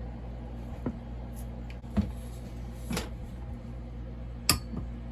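Four sharp clicks and knocks of hand tools working on the flywheel nut of a kit chainsaw as it is tightened. The last, about four and a half seconds in, is the loudest. A steady low hum runs underneath.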